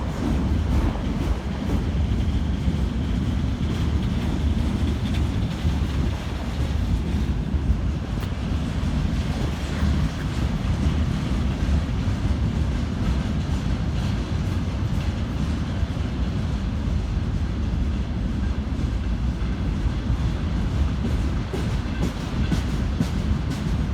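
Railway cars rolling past on the track: a steady low rumble of wheels on rails, with the clickety-clack of wheels over rail joints showing more clearly near the end.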